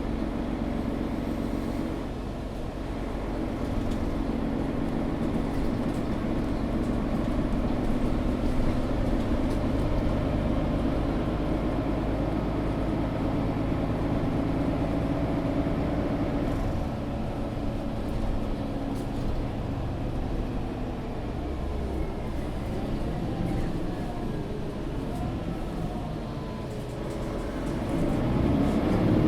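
Mercedes-Benz O530 Citaro G articulated bus heard from inside while driving: the engine runs steadily, its note shifting in pitch in the second half and growing louder near the end as the bus picks up speed.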